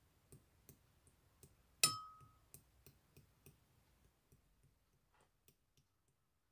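Clear slime being pressed and played with, making a string of small sharp clicks and pops about three a second that thin out toward the end. About two seconds in there is one louder clink with a short ring.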